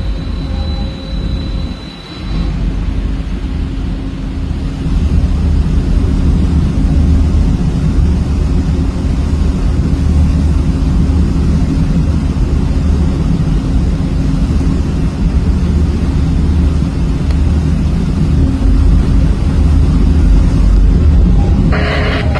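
Heavy, steady low rumble of marine diesel engines from the tugboats working the container ship in, with a constant hum over it; it grows louder about five seconds in.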